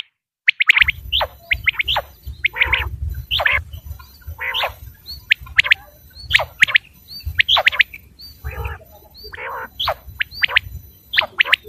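Quail calling: many short, sharply falling chirps in quick, irregular succession, starting after a moment of silence about a second in, over a low rumble.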